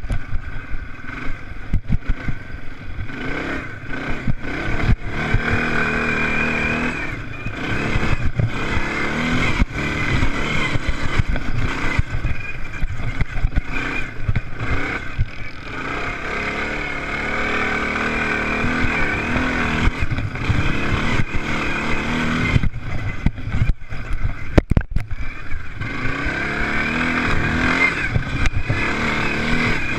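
Motocross bikes' engines revving up and down as they race around the track, the pitch rising and falling over and over.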